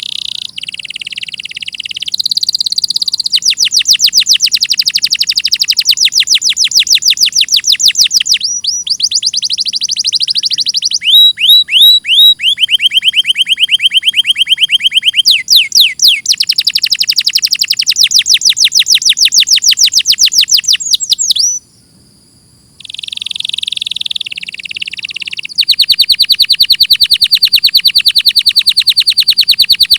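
Domestic canary singing a long, continuous song of fast trills and rapid repeated notes, with a short break a little past two-thirds of the way through before the trilling starts again.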